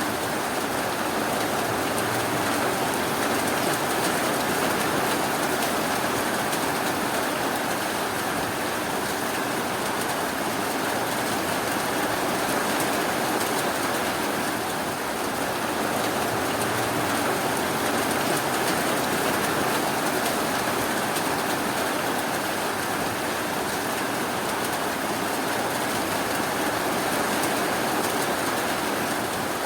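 Steady rainfall, an even hiss of rain with no distinct drops or thunder standing out.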